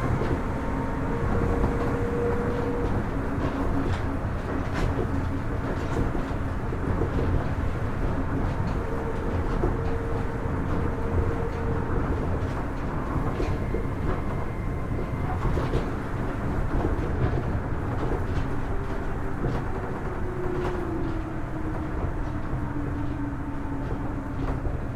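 Kitakyushu Monorail Series 1000 car running, a steady rumble under the thin whine of its Hitachi IGBT-VVVF inverter drive, with scattered light clicks. About 20 seconds in, a motor tone glides downward as the train slows for the next station.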